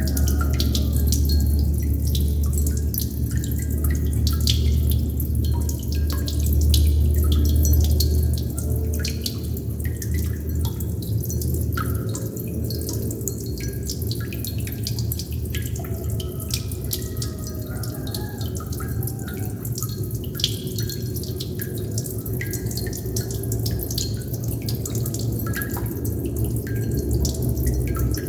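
Water droplets dripping continually, many small drops plinking at an irregular rate, over a low steady rumble that softens about twelve seconds in.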